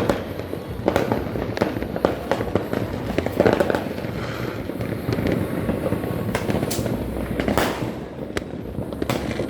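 Many firecrackers and fireworks going off at once, a dense, irregular run of bangs and pops with no pause.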